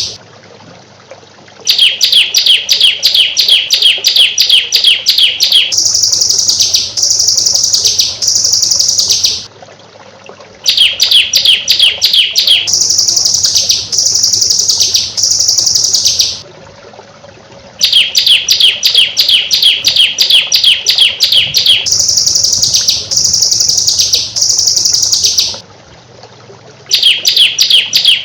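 Songbird song in the rapid 'tembakan rapat' style. Each phrase is a few seconds of fast, tightly packed high notes, followed by several longer high notes. A short pause follows, and the same sequence repeats about every eight seconds, four times in all.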